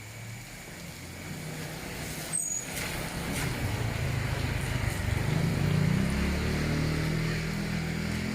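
A motor vehicle's engine draws near and passes, growing louder toward the middle and easing a little near the end, over the steady hiss of rain. There is a short high squeak about two and a half seconds in.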